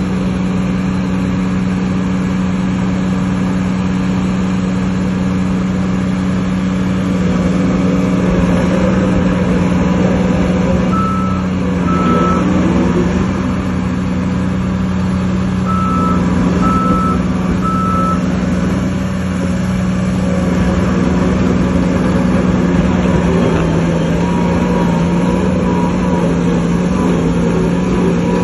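Heavy diesel earth-moving machinery running steadily under load, with a reversing alarm beeping twice about eleven seconds in and three times a few seconds later.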